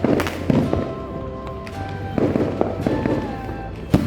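Fireworks and firecrackers going off: several sharp bangs, the loudest just before the end, over background music.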